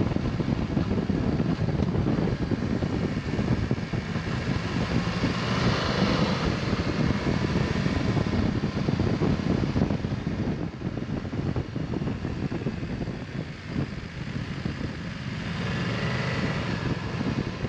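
Motorcycle engine running under way with wind rushing over the camera microphone, the engine note rising briefly about six seconds in and again near the end.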